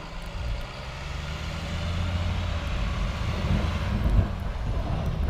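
Truck engine running steadily, growing louder over the first couple of seconds.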